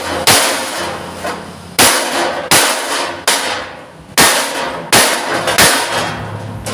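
Hammer blows on a thick steel plate of about 2 mm, shaping a sheet-metal panel: about seven sharp strikes, roughly one a second and unevenly spaced, each with a short metallic ring.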